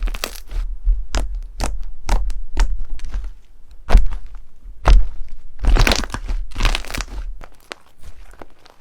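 Slime being squeezed and pressed by hand, giving off a quick run of crunchy crackles and sharp pops. The two loudest pops come about four and five seconds in, followed by a denser patch of crackling that dies down near the end.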